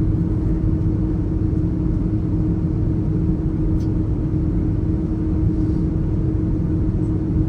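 Airbus A330 jet engines heard from inside the passenger cabin during departure: a loud, steady rumble with a constant hum underneath.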